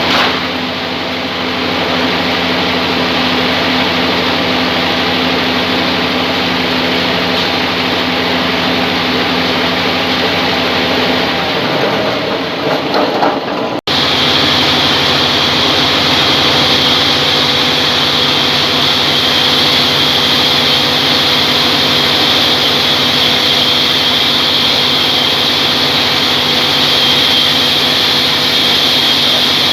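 Sawmill machinery running steadily with a low hum. Partway through there is a brief jumble and a sudden break, after which it runs on with a loud high hiss added.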